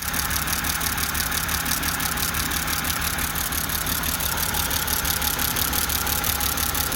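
BMW six-cylinder engine idling with a fast, even ticking, about eight ticks a second, over a steady low rumble. The engine is misfiring on a failed ignition coil pack.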